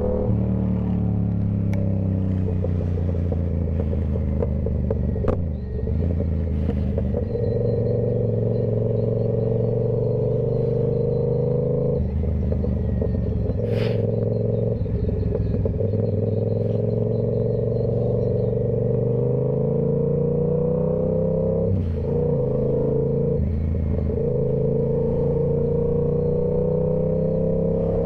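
Yamaha YZF-R7's 689 cc parallel-twin engine running through a Toce full exhaust system at steady moderate revs, its pitch slowly climbing, with several brief breaks in the note and one sharp click about halfway through.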